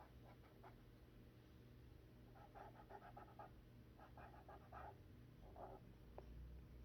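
Near silence: room tone, with a few faint, quick scratchy strokes in short runs around the middle.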